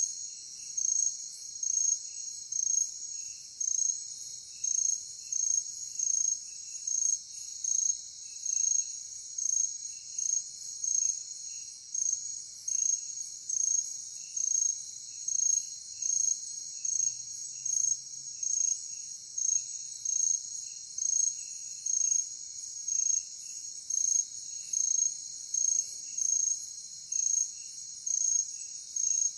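Night insects, crickets among them: a steady high trill with regular loud chirps repeating somewhat more than once a second.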